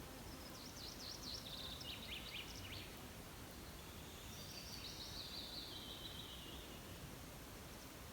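Songbird singing two faint phrases of rapid trilled notes, each stepping down in pitch, over a steady background hiss.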